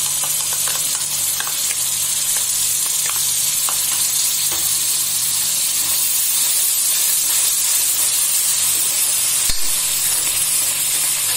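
Onion-tomato masala with yogurt just added, sizzling hard in a metal kadhai as a steel ladle stirs it in, with small crackles and pops in the first few seconds. A single sharp knock near the end.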